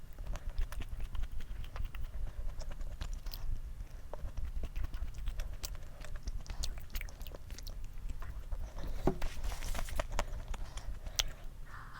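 Close-miked chewing of a frozen snack, with many small sharp mouth clicks over a low steady rumble.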